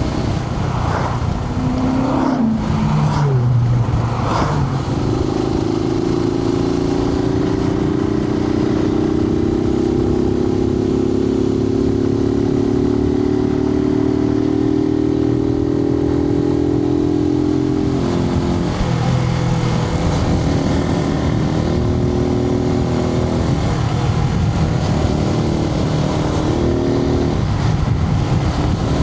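Suzuki TU250X's single-cylinder engine heard from inside the rider's helmet over a steady rush of wind. The revs fall about two to four seconds in, then hold steady, climbing slightly, for over ten seconds, then drop and rise and fall in steps through the rest.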